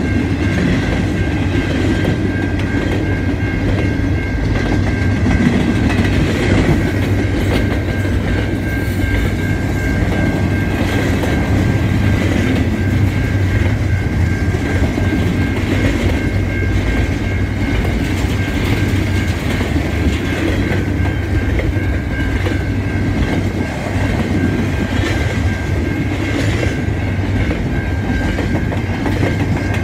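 Double-stack intermodal container cars of a freight train rolling through a level crossing, wheels clacking and rumbling on the rails, with the crossing's warning bell ringing in quick, evenly repeated strokes.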